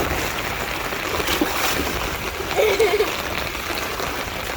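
Feet wading through shallow floodwater, splashing and sloshing over a steady wash of water noise.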